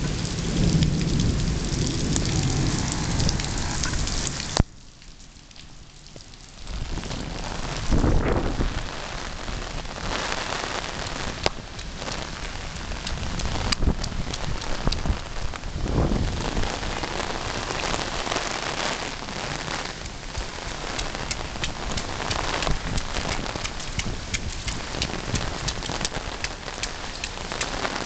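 Heavy rain falling and splashing, a dense hiss full of small drop impacts. The sound drops away suddenly for about two seconds near the start, and there are low rumbles a few times.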